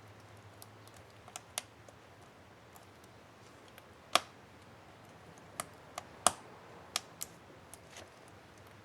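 Sharp plastic clicks from the Enter key of an HP ENVY 15 laptop keyboard as its keycap and retainer clips are worked on: about a dozen irregular clicks, the two loudest about four and six seconds in.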